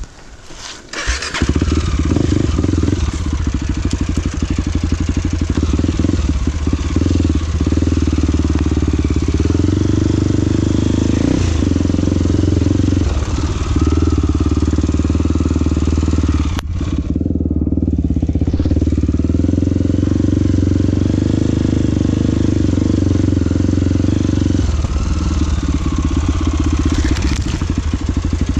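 Motorcycle engine catching about a second in, then running steadily with small changes in pitch.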